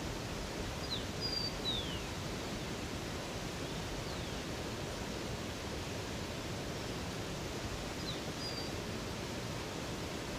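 Steady rush of running water, with a few short, high bird chirps: a small cluster about a second in, one near four seconds and another pair about eight seconds in.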